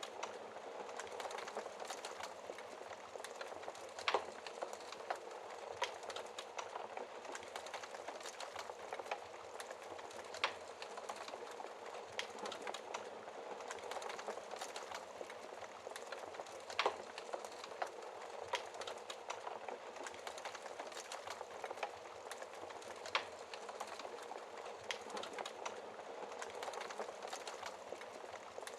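Fire burning behind a glass shield: a steady hiss of flames with scattered crackles and pops, a few sharper snaps standing out.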